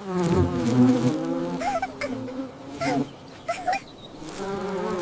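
Bees buzzing around flowers: a steady, droning hum that swells and fades as they fly about, with three short high chirps in the middle.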